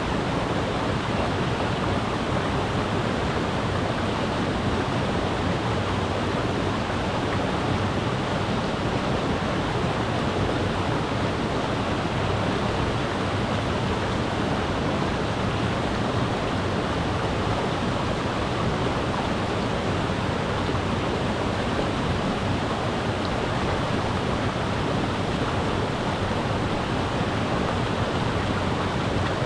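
A mountain river rushing steadily over rocks, a dense, even wash of water noise that does not change.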